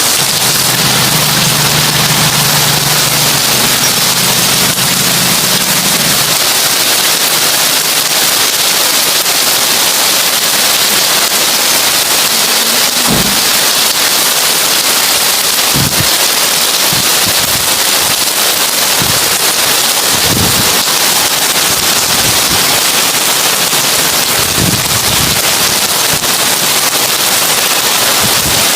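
Heavy rain on a tin roof: a dense, steady, crackling patter of drops on metal sheeting, with a few short low thuds in the second half.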